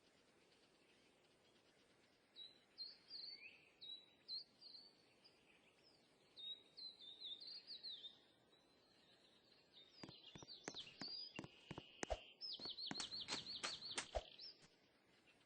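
Small songbirds chirping and singing in short phrases, with a faster, denser run of quick repeated high notes near the end.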